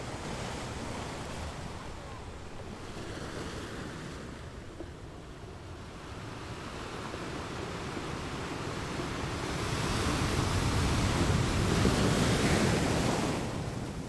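Steady rain falling on leaves, an even rushing hiss that swells louder for a few seconds past the middle and then eases off near the end.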